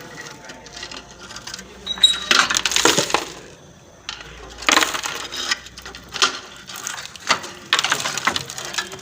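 Metal tools or parts clinking and clattering in several separate bursts, the longest about two to three seconds in.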